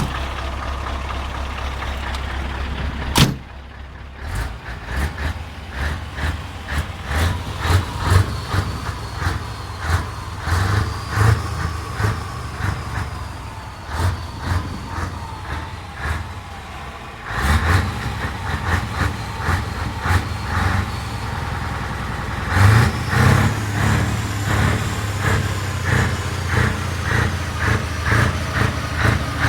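Scania V8 truck engine running with an uneven, pulsing exhaust note. There is a sharp click about three seconds in, and the engine grows louder around the middle and again later on.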